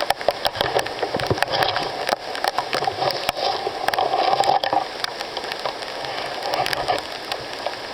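Rain falling through the rainforest canopy, a steady wash with many close drops ticking irregularly on leaves.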